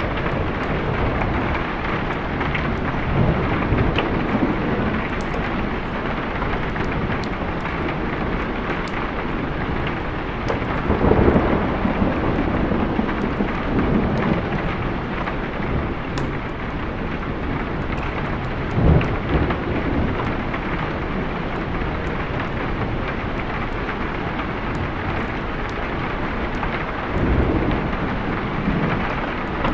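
Steady heavy rain, with rolls of thunder rumbling in and fading away several times, the loudest about eleven and nineteen seconds in.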